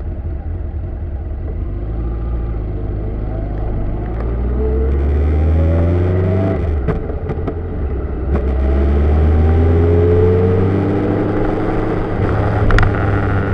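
Car engine accelerating through the gears: its pitch rises and then drops at an upshift about seven seconds in, and again just before eleven seconds. A steady wind and road hiss runs underneath, as heard from a camera mounted outside on the mirror arm, and there is a single sharp tick near the end.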